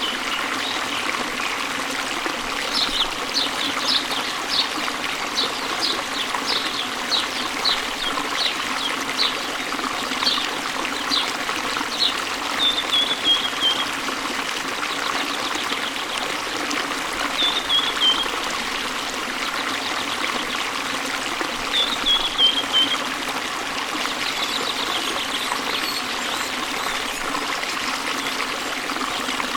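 Stream water flowing and splashing steadily, with birds chirping over it. A run of quick repeated chirps slows down over several seconds, followed by three short falling trills.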